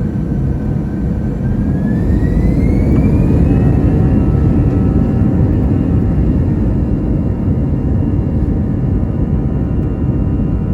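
Airbus A321-211's CFM56-5B turbofan engines spooling up to takeoff thrust, heard from inside the cabin. A whine rises in pitch over a couple of seconds and then holds high, over a heavy rumble that grows louder.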